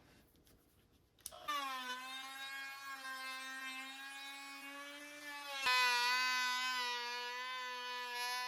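Small high-speed electric power tool motor whining at a steady pitch, starting about a second and a half in. A sharp click comes about two-thirds of the way through, after which the whine is louder and brighter.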